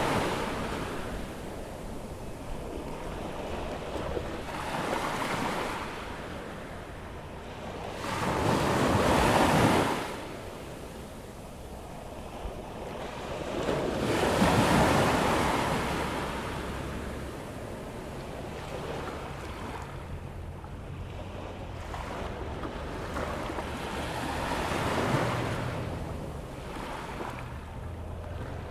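Atlantic surf on a sandy beach as the tide comes in: waves break and wash up the sand in swells every few seconds, the loudest about a third of the way in and again about halfway through.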